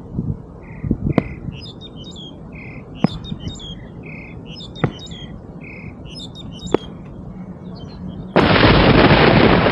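Birds chirping, with a sharp click about every two seconds. About eight seconds in, a loud, even noise starts suddenly and drowns them out.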